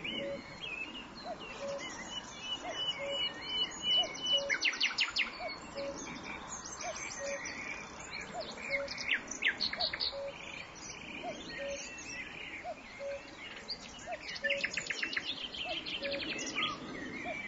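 Several birds singing outdoors: many high chirps and quick rattling trills, the busiest bursts about four seconds in and again near the end. Under them, a short low note repeats evenly about every 0.7 seconds.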